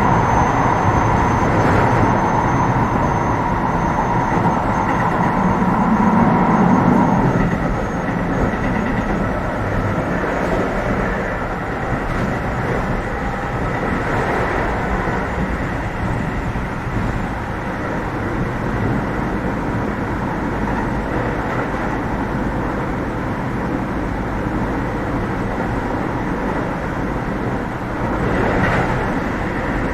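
Keio 7000 series electric train running at speed between stations, heard from inside the passenger car: a steady rumble of wheels on rail and the running gear, a little quieter after about seven seconds.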